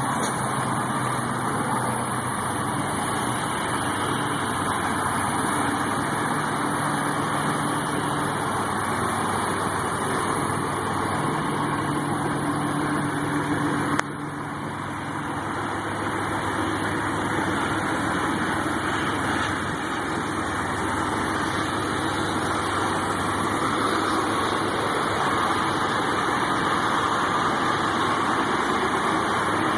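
A car engine running at low speed over a steady hiss of road and wind noise, its low hum shifting in pitch now and then. An abrupt cut about halfway through briefly drops the level.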